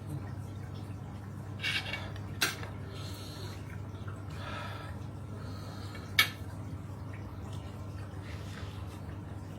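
A person eating chicken feet with papaya salad: a few wet mouth clicks and smacks, the sharpest about two and a half and six seconds in, over a steady low hum.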